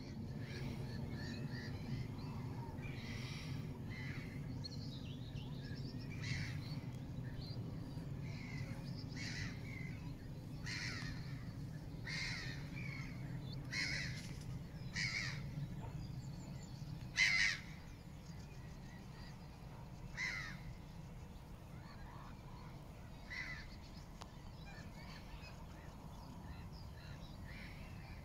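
A bird giving short calls over and over, roughly every one to three seconds, the loudest about seventeen seconds in, over a steady low hum.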